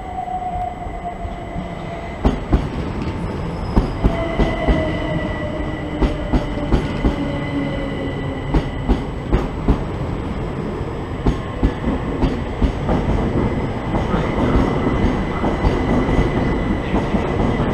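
Southern electric multiple-unit train pulling in and slowing, with a whine that falls in pitch as it decelerates. Its wheels clack sharply over rail joints, many times.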